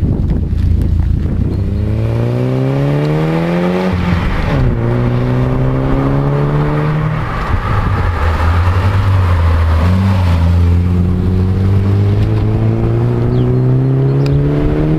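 Nissan 200SX's turbocharged four-cylinder engine breathing through a stainless steel aftermarket exhaust, accelerating hard: the engine note climbs, drops sharply at a gear change about four seconds in, and climbs again. It then holds a steady pitch for a few seconds before rising slowly once more.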